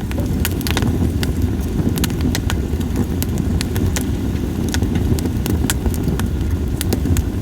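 Wood fire of split sawtooth oak logs crackling, with sharp irregular pops several times a second over a steady low rumble.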